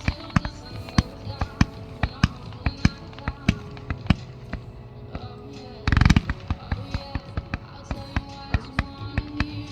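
Fireworks going off in irregular sharp bangs, several a second, over music. About six seconds in comes a dense rapid rattle of reports, the loudest moment.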